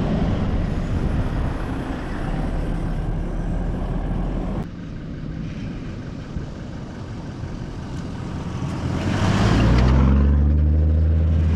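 Off-road vehicle engine running under load, with a sudden change about four and a half seconds in. Near the end the engine note gets much louder and stronger.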